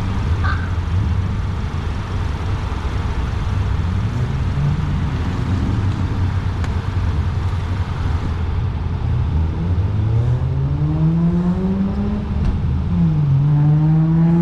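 A steady low engine rumble, then about ten seconds in a car accelerates. Its engine climbs in pitch, dips briefly as it shifts gear, then climbs again.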